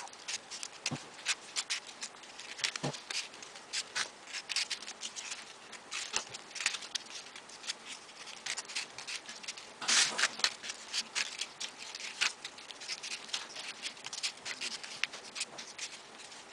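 Folded paper triangle modules rustling and clicking as they are pushed and slotted onto one another: an irregular run of small crisp ticks, busiest about ten seconds in.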